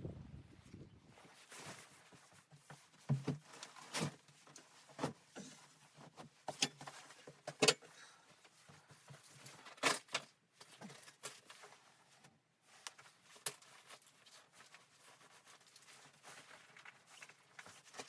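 Scattered, irregular small knocks and clicks of gear being handled in a small enclosed space, after low wind noise dies away about a second in.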